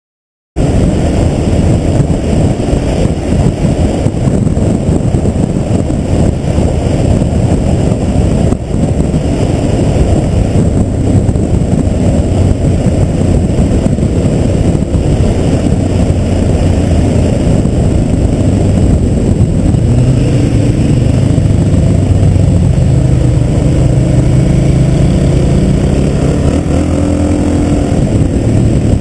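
Suzuki DR-Z400SM supermoto's single-cylinder four-stroke engine running at road speed, heard on an onboard camera under heavy wind rumble, cutting in abruptly about half a second in. In the last third the engine note rises and falls as the rider works the throttle.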